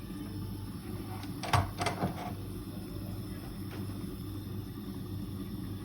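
Two or three short knocks in quick succession, about a second and a half in, over a steady low hum.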